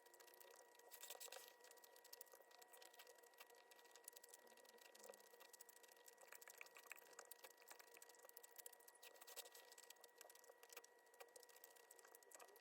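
Near silence: faint scattered light clicks and taps over a faint steady high whine.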